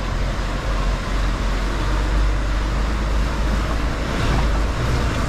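Mercedes-Benz Actros L truck's diesel engine running with a steady low drone, heard from inside the cab, with tyre and chassis noise from driving over muddy ground.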